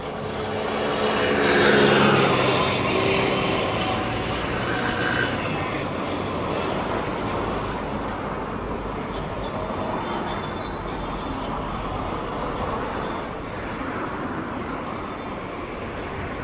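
A motor vehicle passes close by, its engine loudest about two seconds in and falling in pitch as it goes away, followed by steady background traffic noise.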